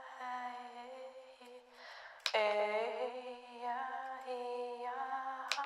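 A voice humming long, steady held tones as somatic sound practice, with a short break and a new tone starting about two seconds in. Sharp clicks at the start of the second tone and near the end.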